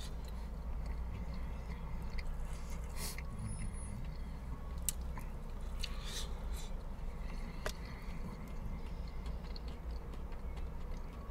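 A person biting into and chewing crispy fried chicken, with wet mouth sounds and a few sharp crunches, over a steady low hum.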